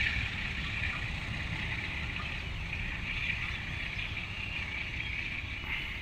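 Passenger train running along the track: a steady low rumble with a constant hiss higher up.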